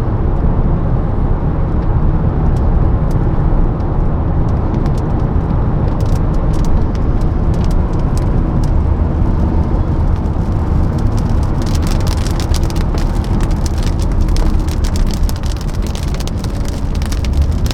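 Steady low rumble of a moving motor vehicle, with scattered sharp ticks from about six seconds in that come thicker from about twelve seconds on.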